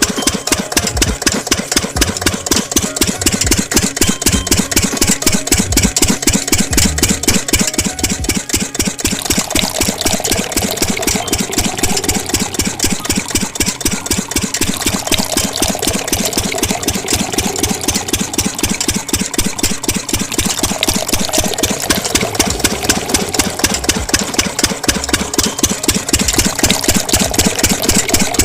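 Diesel engine of a water pump running steadily at idle, with an even, rapid knocking beat.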